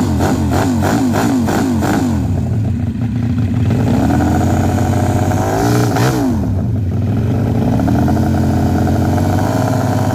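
Homemade V4 engine, built from scrap-yard engines, running and being revved: quick repeated rev rises at first, then held higher revs that climb, drop about six seconds in, climb again and fall away near the end.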